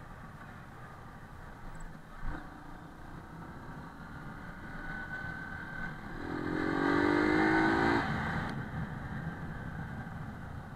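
Small motorcycle engine running under way, with a single sharp knock about two seconds in; about two-thirds through, the engine revs up, rising in pitch, for a couple of seconds, the loudest part, then settles back.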